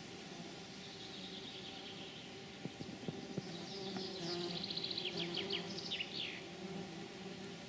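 A songbird singing one short song: a rapid high trill ending in a few quick falling notes, over a steady low hum.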